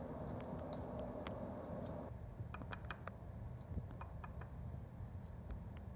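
Faint light ticks, a few a second, over a low hum that stops about two seconds in.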